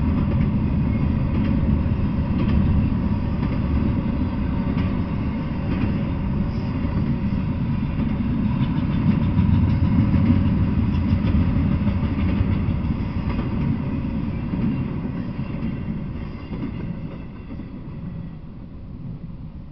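Double-stack intermodal freight train rolling past: a steady, loud rumble of wheels on rail that fades away over the last few seconds as the end of the train passes.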